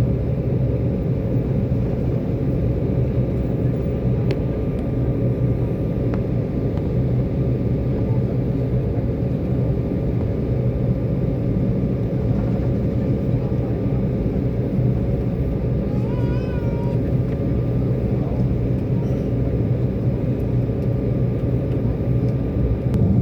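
Airliner cabin noise: a steady, unchanging drone of engines and airflow, with a faint steady whine above it.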